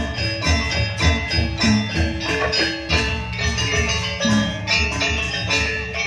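Live gamelan music accompanying a janger dance: metallophones ring out many short notes over a steady low drum beat.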